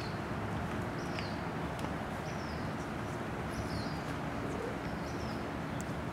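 Steady outdoor background rumble with a small bird's short, falling chirps repeating about once a second.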